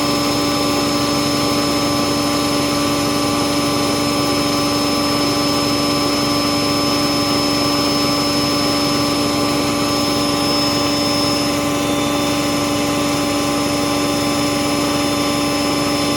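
Bauknecht WAS 1400 washing machine running, its motor giving a steady hum with a strong even tone and overtones over a whooshing background.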